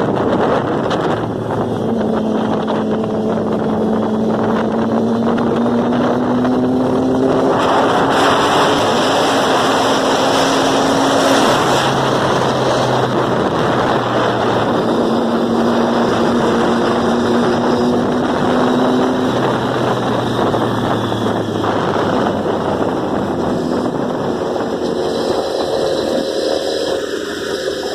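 Motorcycle engine pulling at road speed, its pitch climbing slowly and dropping at each gear change, over heavy wind noise on the microphone.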